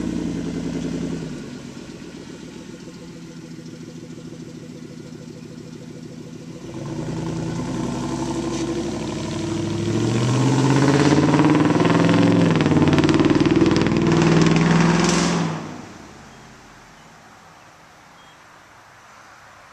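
2002 Ford F-150's 4.6-litre V8 through true dual exhaust with no mufflers. It idles after a louder first second, is revved repeatedly for several seconds in the middle, then drops away sharply about three quarters of the way through.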